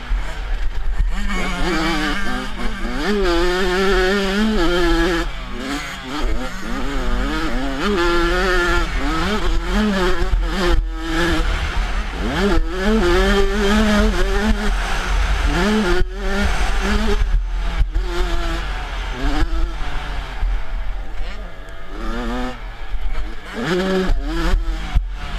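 Motocross dirt bike engine revving hard, its pitch rising and falling repeatedly with brief throttle cuts, over a steady low rumble.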